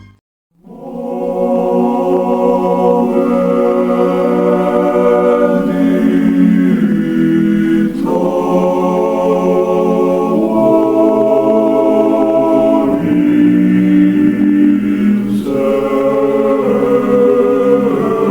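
Background choral music: a choir singing long, slow held chords that change every few seconds. It comes in after a brief moment of silence right at the start.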